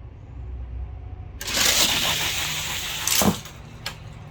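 Several die-cast toy cars rolling fast down a plastic race track in a dense rattling rush. It starts about a second and a half in, lasts about two seconds and ends with a sharp clack.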